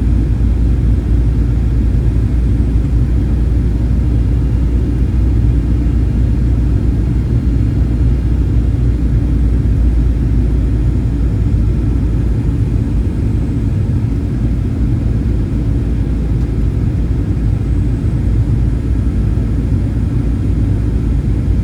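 Boeing 737-800 cabin noise: a steady low rumble of engine and airflow noise heard from inside the cabin.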